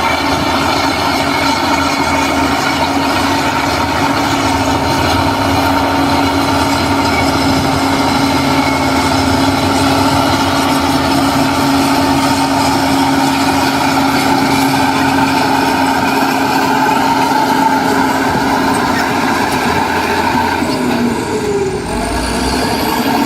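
Heavy construction machinery, a diesel bulldozer or dump truck, running steadily under load, with a steady whine over the engine noise. The level dips briefly near the end.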